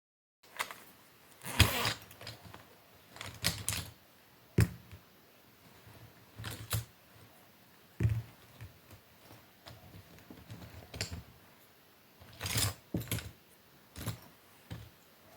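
Irregular knocks, taps and rustles of small objects being handled on a desk, in short clusters a second or two apart.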